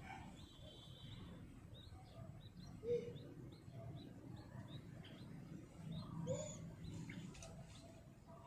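Birds chirping: a steady run of short, high chirps, with a few lower calls about three and six seconds in.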